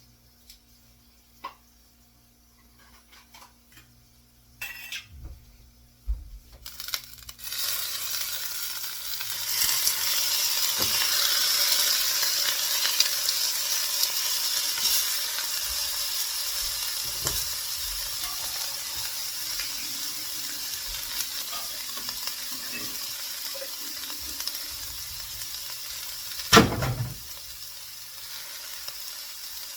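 A few light clicks and knocks of kitchen handling, then, about a quarter of the way in, food goes into a hot frying pan and sizzles loudly. The sizzle slowly eases off. A single sharp thump comes near the end.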